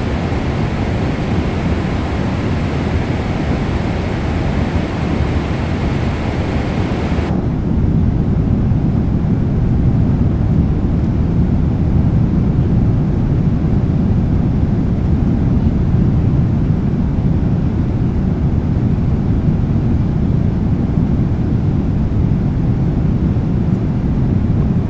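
Steady cabin noise of a Boeing 777-300ER in flight, the rumble of its engines and the airflow over the fuselage. About a third of the way in the upper hiss cuts off suddenly, leaving a deeper, slightly louder rumble.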